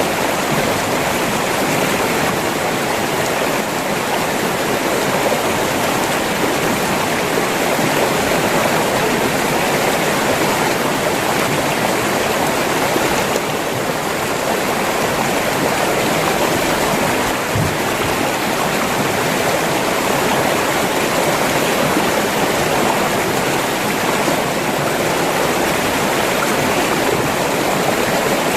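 River water rushing and gurgling over rocks: a steady, dense rush without change.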